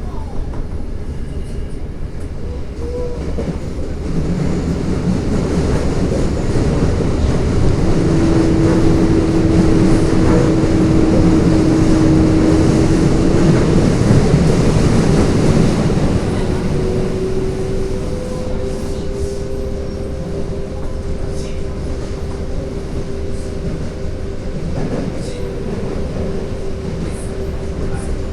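Toei Asakusa Line 5300 series subway train running, a steady rumble with wheel-on-rail noise that grows louder from about four seconds in and eases after about sixteen seconds, with steady held tones.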